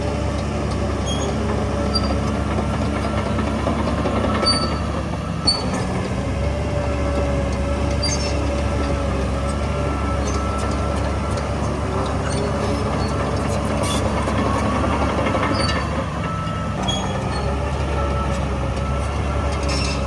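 Shantui DH17C3 crawler bulldozer at work: its diesel engine runs with a steady hum, and a wavering squeal comes and goes with light metallic clicks from the running gear.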